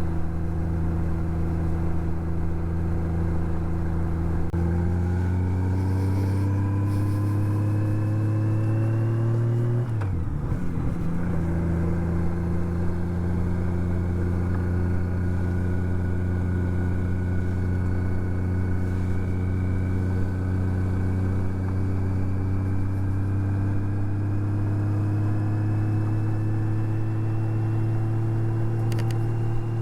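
Honda Gold Wing GL1800's flat-six engine running on the move. It pulls with a rising note for several seconds, shifts up about ten seconds in so the note drops, then holds steady and climbs slowly again near the end.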